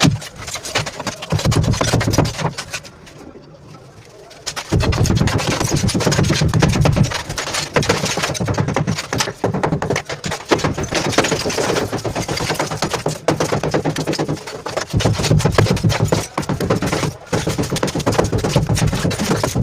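Electric demolition hammer chiselling out old tiles and masonry with a fast, continuous rattle of blows, stopping briefly about three seconds in and starting again.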